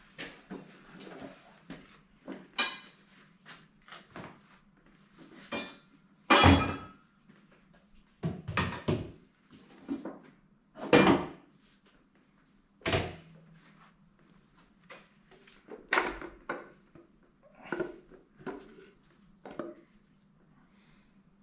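Metal engine parts and hand tools knocking and clunking as they are handled and set down during an engine strip-down: about a dozen separate knocks, the loudest about six and eleven seconds in.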